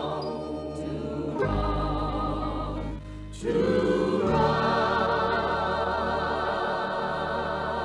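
Closing theme music: a choir singing long held chords with vibrato over the accompaniment, a new, louder chord coming in about three and a half seconds in.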